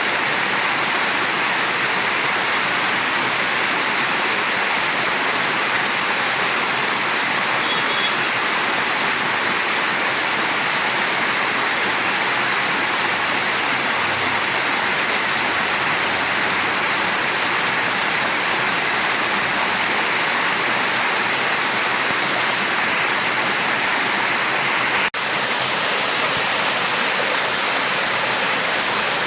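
Mountain stream rushing steadily over its bed, a continuous full hiss of flowing water, with one momentary dropout late on.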